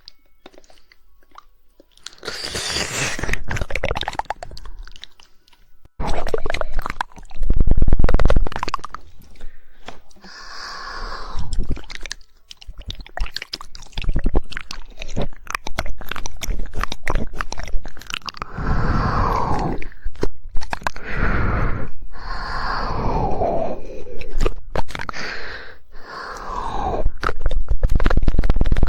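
Close-miked ASMR mouth sounds: rapid 'woodpecker' tongue clicking and wet mouth noises, in bursts of a few seconds with short pauses. The first two seconds are quieter.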